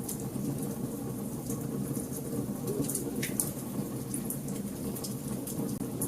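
Wood fire in a fireplace crackling: scattered sharp pops and ticks over a low, steady roar of the flames, with one longer pop about three seconds in.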